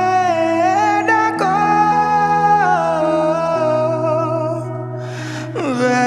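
A Bengali song: a voice sings long held notes over sustained backing chords, with a short break in the singing near the end before the next phrase slides in.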